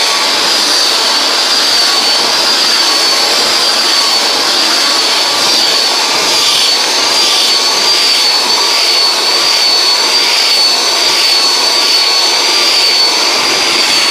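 Conair styler hand-held blow dryer running at a steady setting: a loud, even rush of air with a high, slightly wavering whine from the motor.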